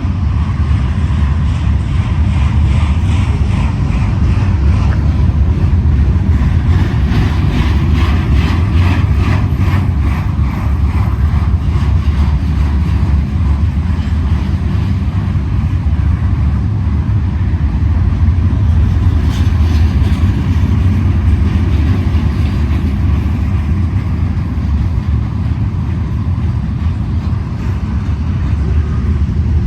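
Freight train rolling past, a loud steady rumble of steel wheels on rail, with a run of regular clicks from the wheels for several seconds near the middle.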